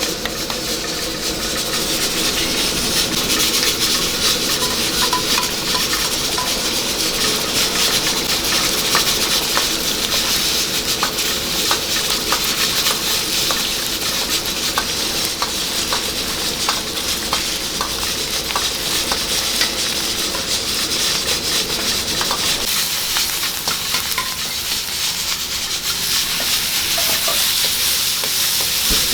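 Food sizzling and frying in a hot wok while a metal ladle or spatula stirs and scrapes it, with frequent short clicks of metal on the wok. A steady hum runs underneath.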